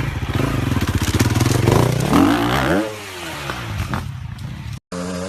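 Motocross dirt bike engine revving: the pitch climbs sharply about two seconds in, then falls and wavers as the throttle comes off. The sound cuts out abruptly near the end.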